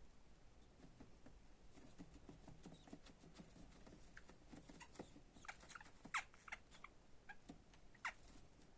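Baby budgerigars giving a few faint, short downward chirps, the loudest about six seconds in and again near the end, over light scratching and tapping.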